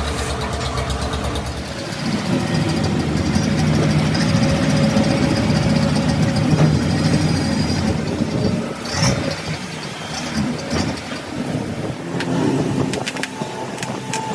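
An engine running steadily, with its low drone shifting about two seconds in, and a few sharp knocks and clicks in the second half.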